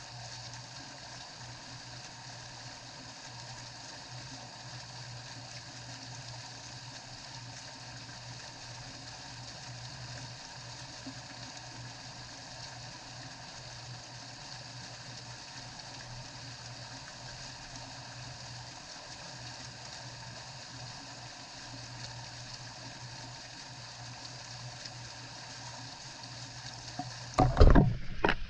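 Steady hiss of falling rain, with a low steady hum underneath. Near the end, loud irregular splashing and sloshing starts suddenly.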